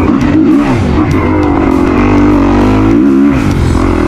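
Dirt bike engine running hard on the throttle, its pitch dipping and climbing again twice as the rider shifts or backs off and gets back on the gas.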